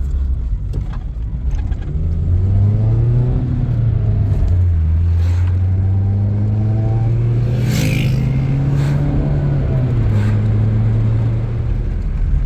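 A motor vehicle's engine pulling away and accelerating: its note rises, drops back at a gear change, climbs again and drops once more about ten seconds in.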